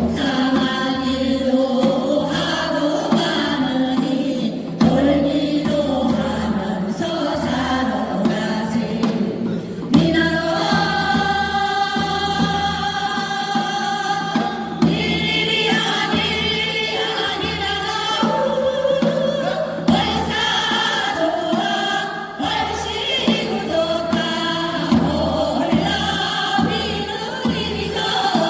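A group of voices singing together, choir-style, with long held notes.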